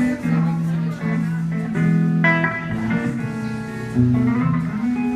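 Guitar playing a line of held, ringing notes that change every half second to a second.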